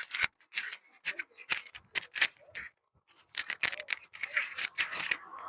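Scratchy crackling noise on the microphone, coming in irregular bursts several times a second with brief dropouts between them.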